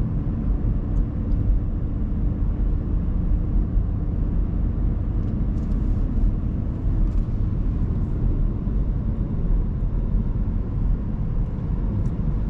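Steady low rumble of a car being driven, engine and tyres on the road heard from inside the cabin.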